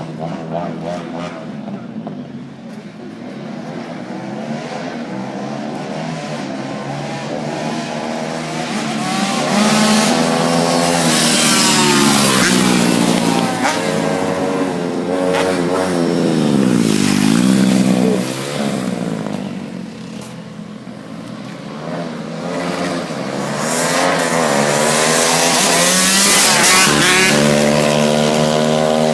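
Dirt bike and pit bike engines revving hard, the pitch rising and falling as the bikes ride past and change gear. The loudest passes come about ten seconds in and again near the end.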